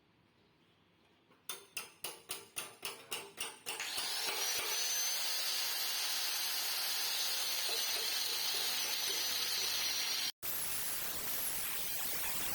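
Hammer blows on a steel exhaust muffler, about nine quick strikes, then a handheld power tool starts up. Its whine climbs as it spins up and then holds over a loud steady grinding hiss. The sound breaks off abruptly near the end and a steady hiss follows.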